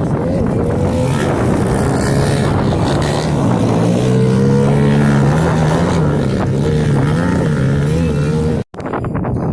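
Small pit bike engines running and revving, their pitch wavering up and down, cut off abruptly near the end.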